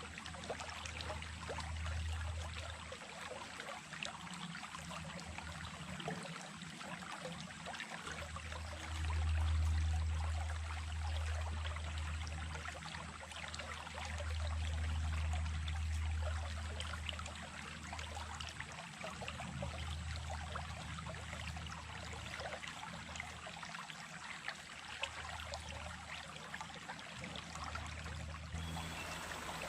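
A small stream running, a steady rush and trickle of water with a low rumble that swells and fades, loudest about a third of the way in and again around the middle.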